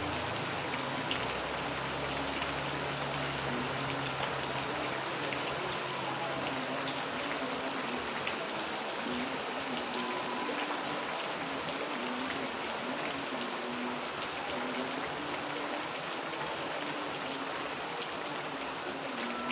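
Steady rain falling, an even hiss with many small drop ticks. A low rumble fades out in the first few seconds.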